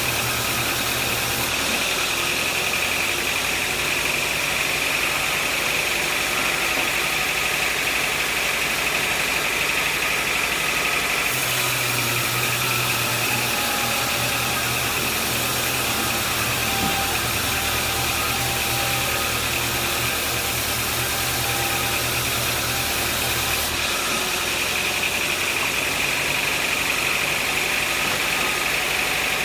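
Sawmill machinery running steadily: an engine's drone with a steady high whine over it. The low engine note changes about eleven seconds in and again near the end.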